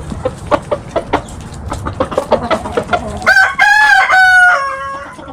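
Chickens clucking in quick short notes, then a rooster crows loudly about three seconds in, one drawn-out crow that dips slightly in pitch toward its end.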